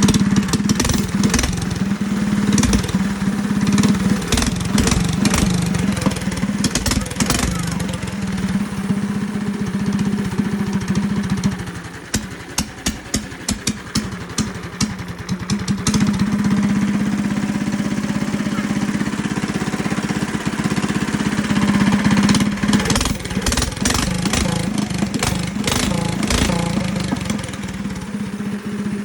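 A go kart's 270cc single-cylinder four-stroke engine running through a large, very loud aftermarket exhaust. About twelve seconds in it drops to a rougher, uneven run with sharp regular pops for a few seconds, then picks up and runs steadily again.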